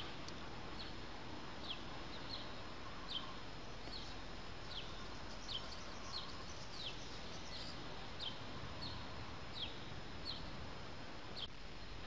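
A small songbird repeating one short, high chirp that slides downward in pitch, about once every two-thirds of a second, over a steady outdoor hiss.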